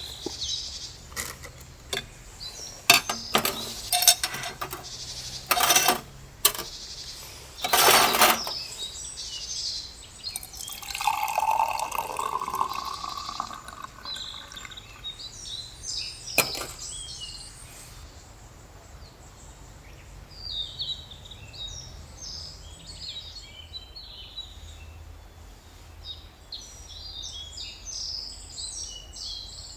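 A run of sharp knocks and splashes of water in the first several seconds, then a brief sound of liquid with a falling pitch. After that, small birds chirp again and again, high and brief.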